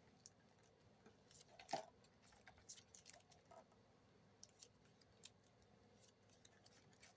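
Faint scattered clicks and crinkles of Magic: The Gathering booster packs and cards being handled and opened, with one slightly louder click just under two seconds in.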